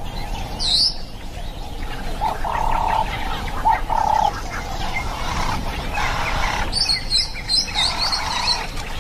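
Wild birds calling: a few short held whistled notes, then a quick run of high chirps about seven seconds in, over a steady outdoor background.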